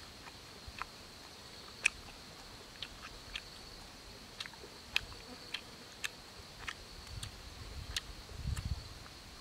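A person chewing roasted rabbit meat: irregular sharp mouth smacks, about one or two a second, with a low rumble near the end as the meat is torn apart by hand.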